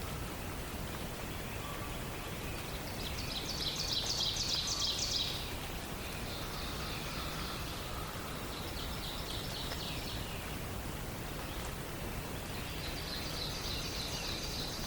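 Songbirds singing rapid trilled songs over a steady low background hiss of forest ambience. The loudest trill comes about three seconds in, with fainter ones following and another near the end.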